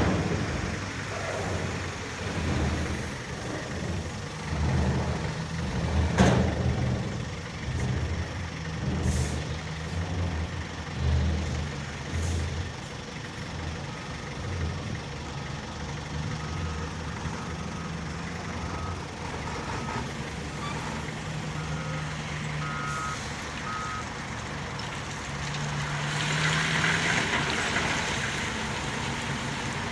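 Howo 6x4 dump truck's diesel engine running with its revs rising and falling, a sharp knock about six seconds in, and its reversing beeper sounding in short beeps through the middle. A burst of hissing comes near the end.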